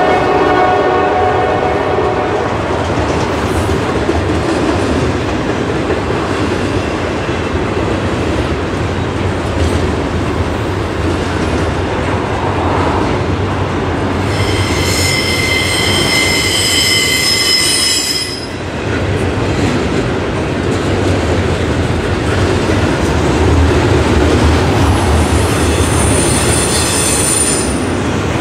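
Double-stack intermodal freight train rolling past: a steady rumble and clatter of loaded well cars on the rails. The tail of a locomotive horn fades out in the first two seconds. A high-pitched wheel squeal rises for about four seconds midway and comes again briefly near the end.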